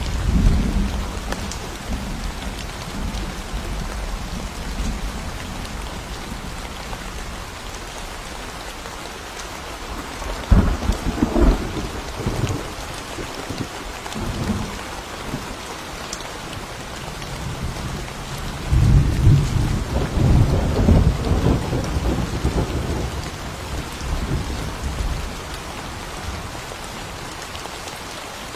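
Steady rain falling in a forest during a thunderstorm, with thunder rumbling over it: a rumble dies away at the start, a sharper peal comes about ten seconds in, and a longer rolling rumble follows about two-thirds of the way through.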